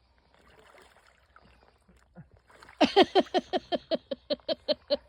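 Faint rustling, then, from about three seconds in, someone bursts into a fast, high-pitched run of laughter: about six short 'ha' bursts a second, each dropping in pitch.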